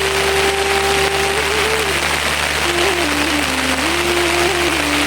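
Steady rain falling, with a soft single-line melody stepping slowly between a few low notes over it.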